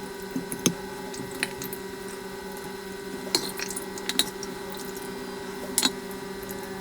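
Scattered light clicks and taps of bowls and utensils being handled while a fufu and soup meal is set out, over a steady low hum.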